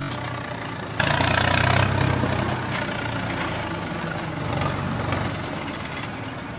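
A vehicle engine idling with a low, rapid rumble. It steps louder about a second in, then slowly fades.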